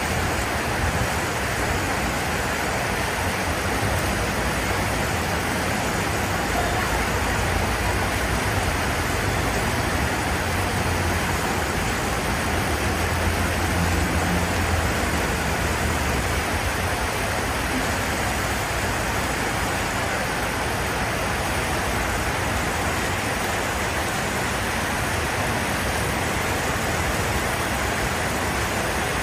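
Traffic on a flooded street: a steady rushing hiss with the low rumble of vehicle engines, which swells a little about halfway through.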